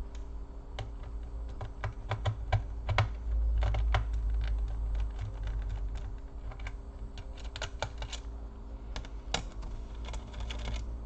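Irregular light clicks and taps of plastic on a laptop case, as its parts and clips are handled and pressed into place during reassembly. A steady low hum runs underneath.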